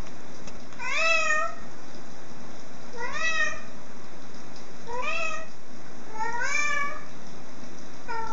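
A black-and-white domestic cat meowing four times, about two seconds apart, each meow about half a second long and sliding up in pitch. A fifth meow begins near the end.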